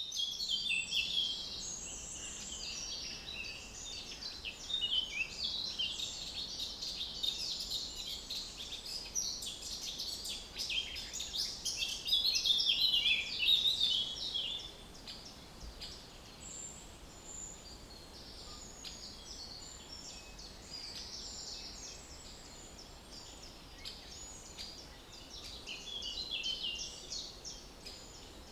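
Small birds chirping and singing in a dense chorus over faint background noise, busiest and loudest through the first half, then thinner and quieter after about halfway.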